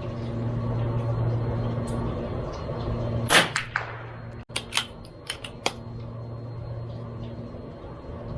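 A single shot from a CZ 457 MTR .22LR bolt-action rifle firing Eley Match about three seconds in, with a short ringing tail. About a second later comes a quick run of five or six sharp metallic clicks, the bolt being worked to eject the case and chamber the next round. A steady low hum runs underneath.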